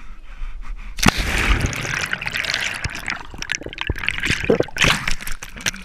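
Water splashing close to the microphone: a sudden splash about a second in, then irregular sloshing, crackling and dripping.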